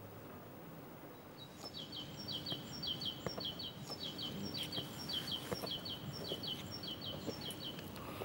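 A songbird chirping a quick, repeated phrase of short, high, falling notes, about two or three phrases a second, starting about a second and a half in. Beneath it runs a steady outdoor background noise.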